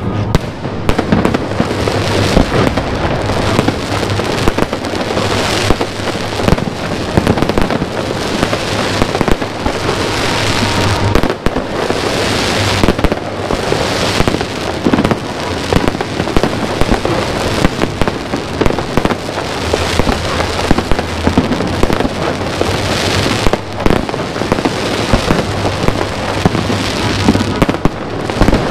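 Aerial fireworks display going off in a dense, continuous barrage of bangs and crackling, with no pause between bursts.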